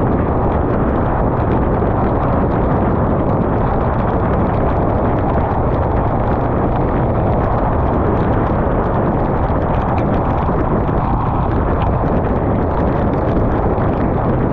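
Steady loud rush of wind over the microphone of a motorcycle at riding speed, with the Yamaha MT-15's single-cylinder engine running beneath it.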